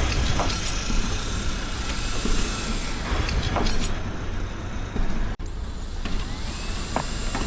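Heavy vehicle or machinery running with a steady rumble and two short bursts of high air hiss. About five seconds in the sound cuts off abruptly and gives way to lighter background noise with a few sharp clicks.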